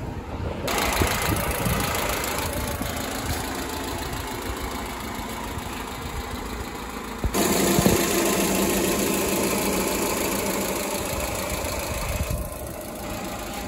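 Honda Civic D16 four-cylinder engine idling steadily with the hood open, freshly fitted with a new head gasket. The sound jumps abruptly in level twice.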